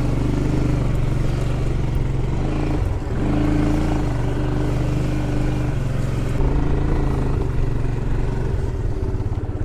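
Engine of a small off-road motor vehicle running under way at a steady pitch, easing off briefly about three seconds in and then running rougher and more unevenly in the second half.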